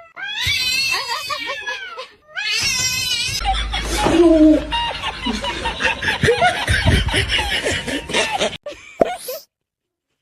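A cat yowling in two long, drawn-out wails, followed by laughter over a loud jumble of noise with a low rumble.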